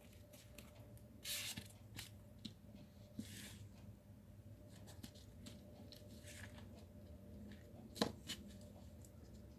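Faint rustling and light ticks of paper and cardstock being handled on a craft table, with a sharp click about eight seconds in.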